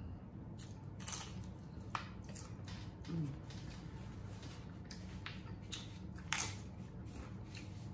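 Close-up eating sounds: crisp corn tostada chips coated in cheese dip crunching between the teeth, with wet chewing. Single sharp crunches come at uneven intervals, the loudest about a second in and about six seconds in.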